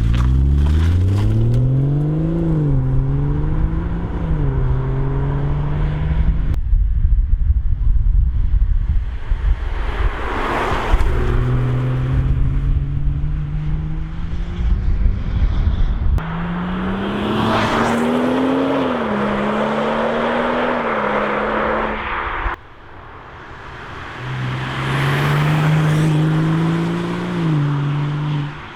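BMW B58 turbocharged straight-six engine and exhaust in a run of short clips: accelerating hard with the pitch climbing and dropping at each upshift, a car passing close by, and a steadier stretch of cruising. The clips cut abruptly from one to the next.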